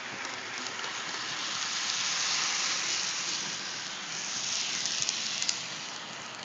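HO-scale model train running on the track, a steady rushing hiss of wheels and motor that swells louder as it passes close and then fades, with a few sharp clicks near the end.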